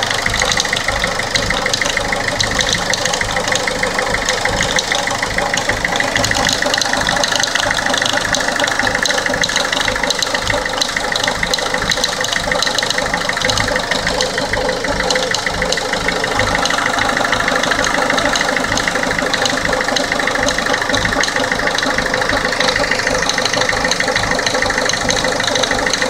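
Peugeot 407 HDi diesel engine idling steadily, with a fast, even ticking running through it: the unexplained noise that the owner is trying to trace.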